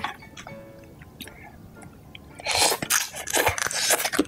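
Soft background music, then about two and a half seconds in a run of loud crunching chewing sounds close to the microphone.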